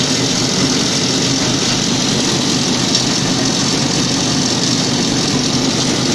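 Corn cob grinding machine running steadily, a loud, even engine-like drone with a broad hiss that does not change.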